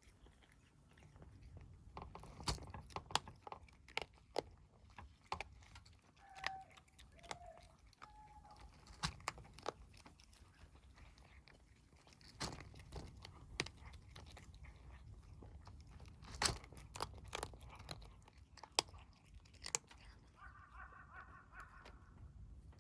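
Stray kittens chewing and crunching cat food, with irregular sharp crunches and clicks of biting.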